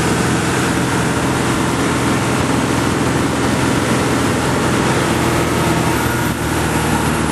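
Boat engine running steadily at a constant note, with a broad rush of wind and water over it.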